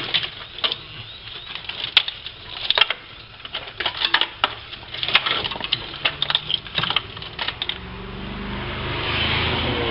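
Irregular light clicks and knocks of small parts being handled and tucked out of the way, then near the end a swelling rushing noise with a low hum.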